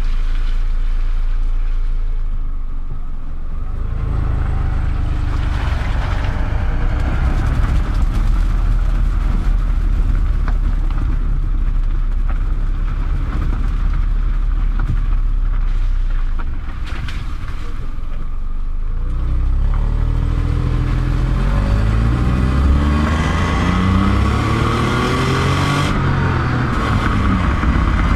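Engine of a Honda Insight ZE1, a 1.0-litre three-cylinder, with road and wind noise, picked up by a camera mounted outside on the front of the car. It runs steadily at first, grows into a louder driving rumble about four seconds in, and dips briefly past the halfway point. In the last several seconds the engine pitch climbs again and again as the car accelerates.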